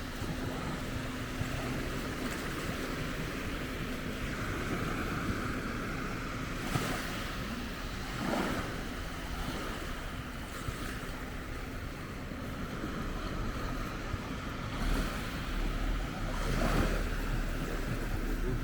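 Sea waves washing onto the shore, a steady wash with a couple of louder surges. Wind buffets the microphone near the end.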